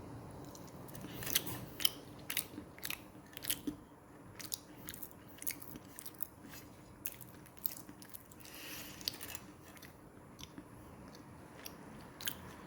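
A person chewing a mouthful of spicy beef mooncake close to the microphone: faint, irregular clicks and small crunches of mouth sounds.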